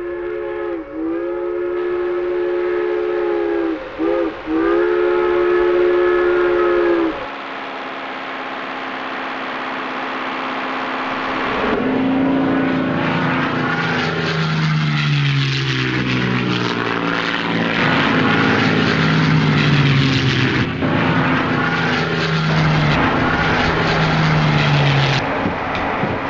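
A train's multi-note air horn blows a chord for about seven seconds, broken by short gaps, then the rumble and rattle of the passing train builds and runs on loudly with a low engine drone.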